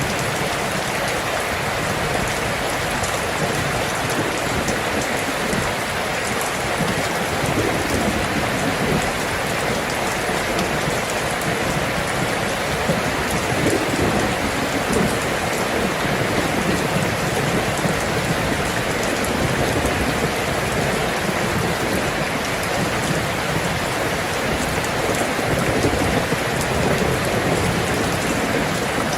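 Steady rain falling, a continuous even hiss of drops on surfaces, with irregular low rumbling beneath it from several seconds in.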